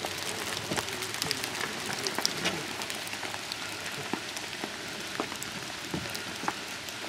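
Steady rain, with frequent sharp taps of single drops landing close by.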